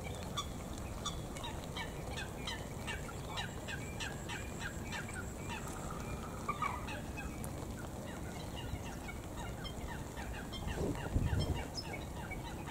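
A bird calling a fast run of short, falling notes that goes on for several seconds and then thins out, over a steady hiss of rain. A brief low rustle comes about eleven seconds in.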